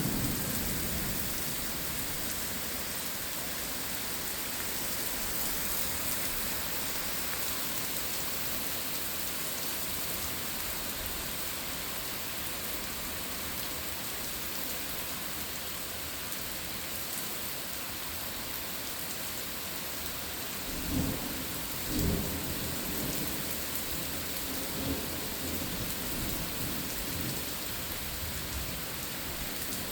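Steady rain falling hard during a thunderstorm. A low rumble of thunder fades out just after the start, and two short low booms of thunder come about two-thirds of the way through, a second apart.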